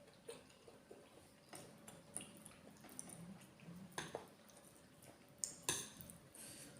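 Close-miked eating sounds: soft wet chewing and mouth clicks while eating curry, with a few sharp clicks, the loudest two in the second half.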